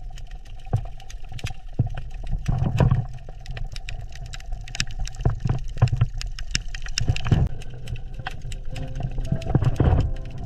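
Underwater ambience: a steady low rumble with many irregular sharp clicks and crackles, swelling louder a few times.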